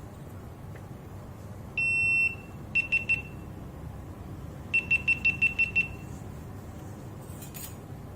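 Electronic beeper sounding: one long beep, then three quick beeps, then a run of seven quick beeps, all on the same high pitch.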